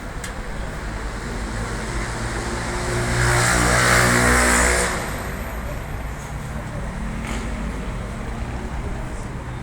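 A motor vehicle passes close by. Its engine note and hiss swell for about two seconds in the middle, over a steady background rumble.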